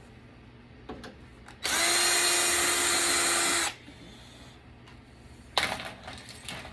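Power drill/driver running at a steady speed for about two seconds, backing a screw out of a desktop computer case. There are a few short knocks of handling before and after.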